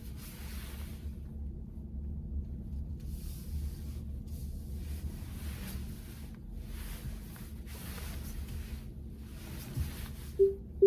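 Low steady rumble inside a VW ID.4's cabin while driving, with intermittent hiss. Near the end the car starts a repeating warning beep that gets quicker.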